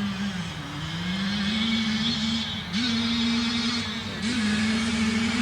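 Yamaha YZ85 two-stroke dirt bike engine running on the track, its note holding fairly steady with a few quick leaps up in pitch as it revs. Onlookers hear it as laboring, without its usual ring, and wonder whether it is low on fuel.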